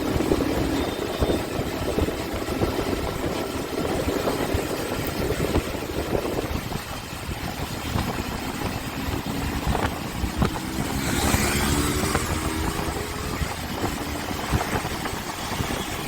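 Motorcycle engine running under way with road and wind noise, the engine tone rising as it speeds up partway through. A short burst of rushing noise comes about two-thirds of the way in.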